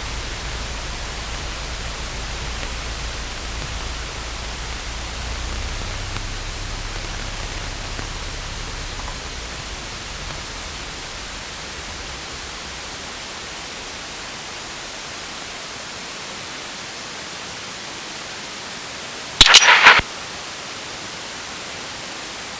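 Steady static hiss on an aircraft radio and intercom audio feed, with a faint low rumble under it that fades away over the first ten seconds. About 19 seconds in comes a single loud burst of radio noise lasting well under a second.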